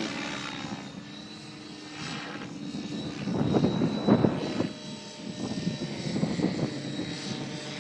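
Align T-Rex 700E electric RC helicopter flying 3D manoeuvres: a steady high whine of the motor and drivetrain under rotor-blade noise that swells and fades in pulses, growing louder about three seconds in.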